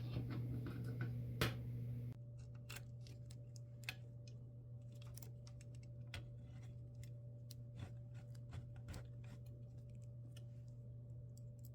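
Light, irregular clicks and taps of small metal parts and tools being handled while the laser engraver frame is put together, over a steady low hum.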